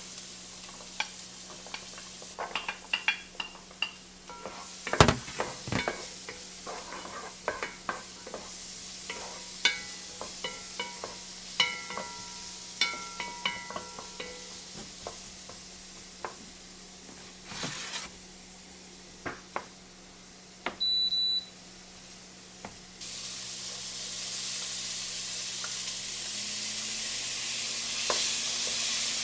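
Home kitchen cooking: utensils clinking and scraping against pots and dishes, some with a short metallic ring, over a faint sizzle. About two-thirds of the way through an appliance gives a single short electronic beep, and soon after a louder, steady sizzling hiss starts and continues.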